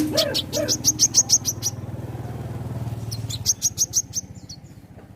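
Small songbird singing rapid runs of high, sharp chirps, about eight a second, then a shorter run about three and a half seconds in. A low steady hum lies underneath and fades near the later run.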